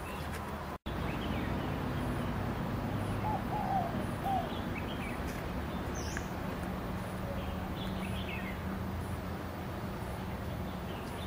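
Birds calling now and then, short high chirps with a few lower notes about three to four seconds in, over a steady low background hum.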